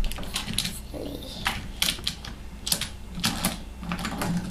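Irregular clicks and clacks of toy train cars being handled and knocked together, a dozen or so sharp taps at uneven intervals.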